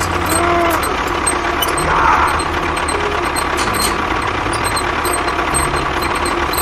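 Tractor-style engine running steadily at idle with a low rumble.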